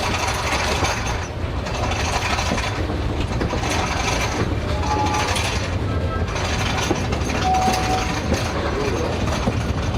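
Old-fashioned Sóller railway train running on the rails: the carriage rattles and clanks steadily over a low rumble, with a few short, high wheel squeals.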